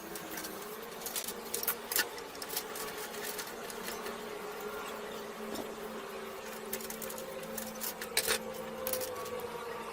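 A small motor whirring steadily, with irregular clicks and taps over it, the loudest about two seconds in and again near the end.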